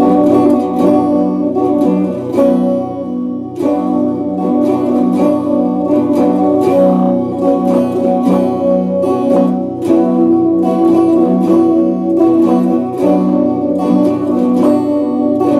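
Epiphone Les Paul Special II electric guitar picked with a plectrum, playing a steady run of sustained chords.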